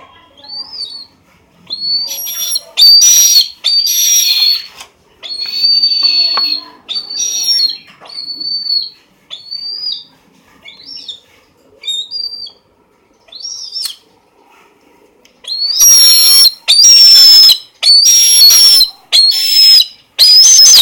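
Pet eagle calling: a long series of high-pitched whistled screams. Some are short and soft, others loud and drawn out, with the loudest in a run of five from about sixteen seconds in.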